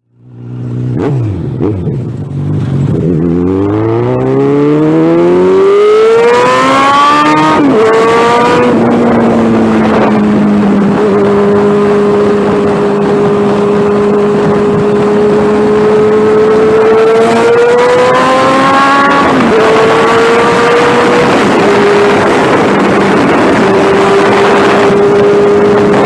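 Suzuki Bandit 1200's inline-four engine with only a straight exhaust pipe and no muffler, revving up steeply for several seconds, dropping once at a gear change and then holding a steady high note, with a brief rise and fall later on.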